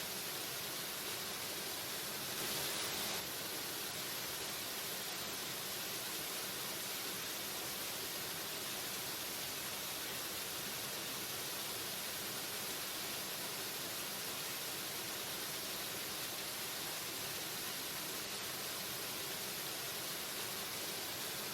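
Waterfall: a steady rushing of falling water, heavy in hiss, swelling slightly for about half a second a little over two seconds in.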